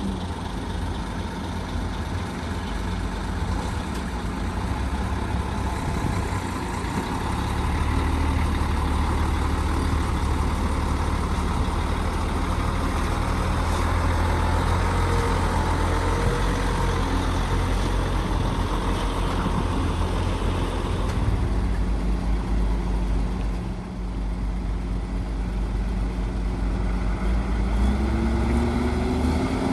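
Heavy diesel engines of an excavator and dump truck running steadily. The engine note drops right at the start and revs up again near the end.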